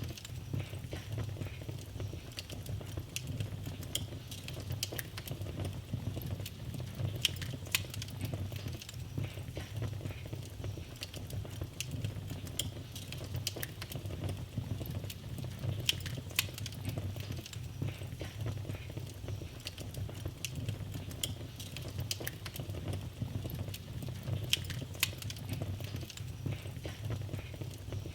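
Wood fire in a fireplace crackling: irregular sharp pops and snaps, a few at a time, over a steady low rumble.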